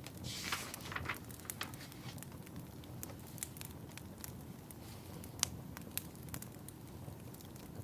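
Wood fire crackling, with scattered sharp pops over a low steady rumble. About half a second in there is a short, denser burst of crackle and hiss.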